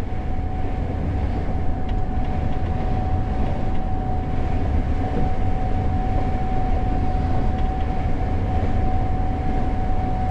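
Gleaner S98 combine running steadily while harvesting corn, heard from the operator's cab: a deep rumble with one steady whine above it.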